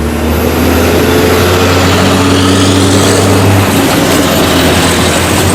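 Motor vehicle engine running: a steady low drone with traffic noise that weakens about three and a half seconds in.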